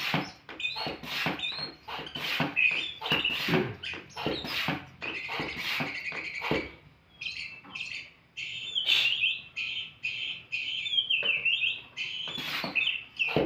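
Oriental magpie-robin (kacer) singing a long, varied song of quick high phrases, which is typical of the mimicked fill-ins (isian) that keepers train into the bird. The song is laced with many sharp clicks and pauses briefly about halfway through.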